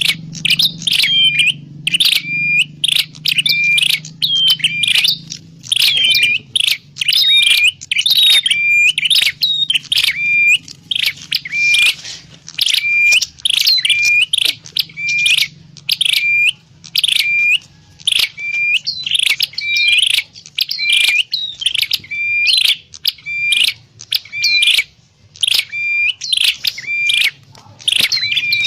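Prenjak klawu, a prinia, calling without pause: a rapid run of sharp, high chirps, about two a second, each a short steady note that flicks upward at the end. A faint low hum lies underneath.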